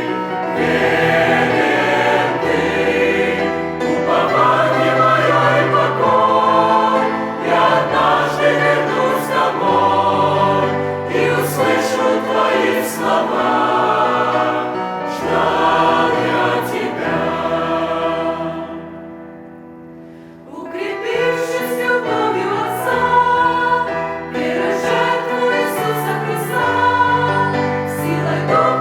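Church choir singing a Russian-language hymn over sustained low notes. About two-thirds of the way through, the singing drops away for a moment, then comes back in full.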